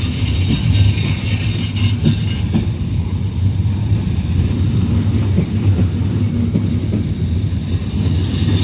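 Passenger train pulling slowly out of a station: a steady low running rumble with occasional clicks of wheels over rail joints.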